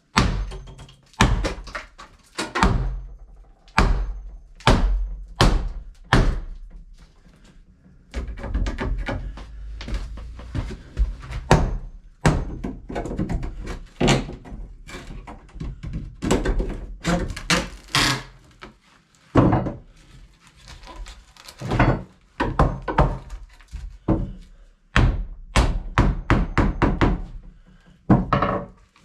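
Irregular heavy thuds and knocks, wood being struck and forced loose by hand, with a denser rumbling stretch about a third of the way in.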